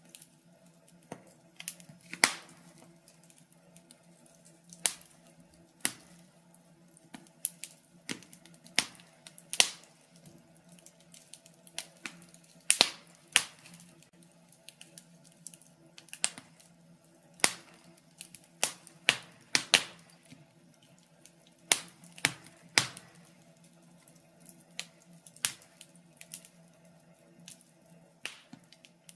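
Wood fire crackling in a fireplace: irregular sharp pops and snaps at uneven intervals, some much louder than others, over a faint steady hum.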